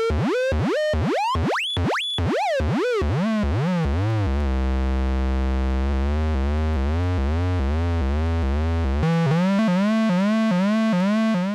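Little Monster VCO, a Eurorack analog oscillator, with its pitch swept by a looping envelope through exponential FM. It makes quick repeating downward pitch swoops, about three a second, which climb higher about two seconds in. They then slow down and settle into a low buzzing drone, and fast swoops return near the end.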